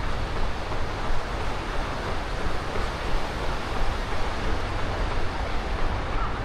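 Steady rushing noise with a low rumble, picked up by a runner's action camera.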